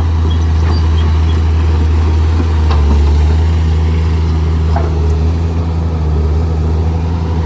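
Heavy diesel machinery engine running steadily at low revs, with a couple of faint knocks about three and five seconds in.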